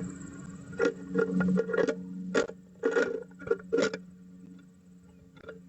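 Male downy woodpecker tapping and scrabbling on a wooden nest box: irregular sharp knocks and scrapes, some in quick clusters, over a low steady hum.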